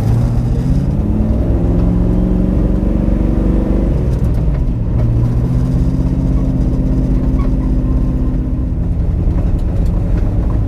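Ford 5.0 V8 of a Fox-body Mustang pulling under acceleration, its pitch rising for about four seconds, dropping briefly at a gear change, then running on at a steadier, slowly climbing pitch.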